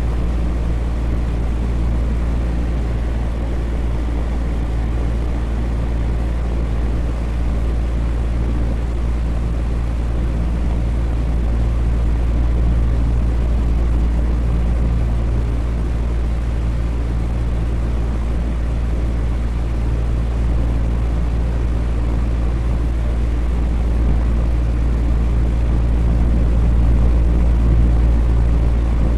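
Electric fan running steadily: an even whoosh of moving air over a deep, constant hum from the motor.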